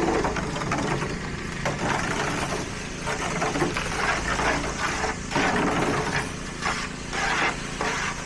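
A heavy diesel engine of road-construction machinery running steadily at a low idle, with irregular bursts of higher noise over it from about four seconds in.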